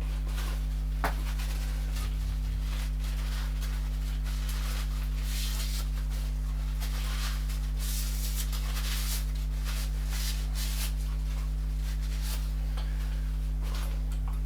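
A steady low electrical hum, with intermittent scraping and rubbing from metal parts being handled and worked, thickest in the middle stretch, and a single click about a second in.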